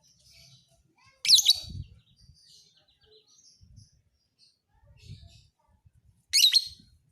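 Lovebird chirping: two loud, shrill bursts of rapid chirps, one about a second in and one near the end, with softer scattered chirps between.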